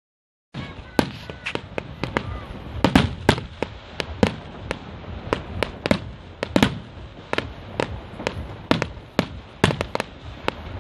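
Aerial fireworks shells bursting in a rapid, irregular string of sharp bangs, two or three a second, beginning about half a second in.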